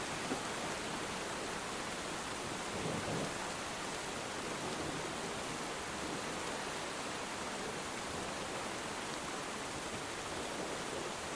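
Steady rainfall, an even hiss with no breaks, swelling slightly about three seconds in.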